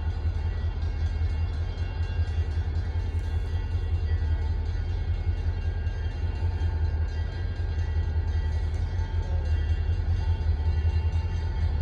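Diesel-hauled train running: a deep, steady rumble with faint steady whining tones above it, growing slightly louder near the end.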